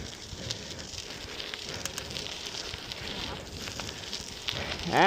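Bicycle tyres rolling along a path while riding, a steady crackly hiss scattered with faint ticks.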